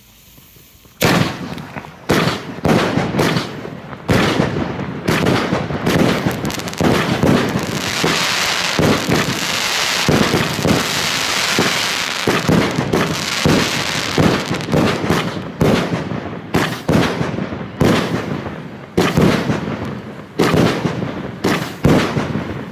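A 25-shot firework battery (Funke Multicolor Polypen) firing. Sharp launch shots come about once a second, starting about a second in, with continuous crackling and hissing from the rising tails and bursting stars between them, densest in the middle.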